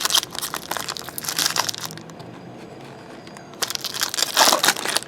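Crinkling and crumpling of a foil trading-card pack wrapper being torn open and handled, in two bouts with a short lull between them.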